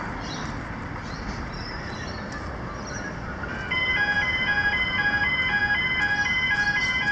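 Street traffic hum, then about three and a half seconds in the level crossing's electronic pedestrian gate alarms start up: a loud, repeating pattern of alternating high electronic tones, signalling that the crossing is activating for an approaching train.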